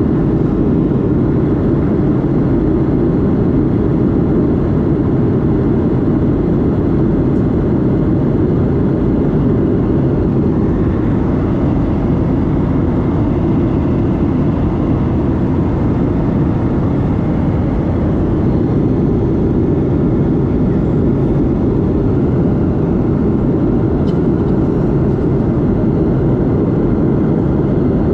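Steady engine and airflow noise inside the cabin of a Boeing 737-8, heard from a seat near the engine: a loud, even rumble that stays unchanged.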